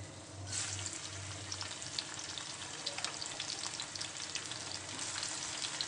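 Chopped onions hit hot cooking oil in a pan and set off a dense crackling sizzle about half a second in, with scattered ticks as they are stirred.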